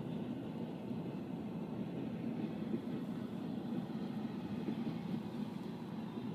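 Train rumbling steadily, a low, even rumble from the diesel locomotive and rolling stock.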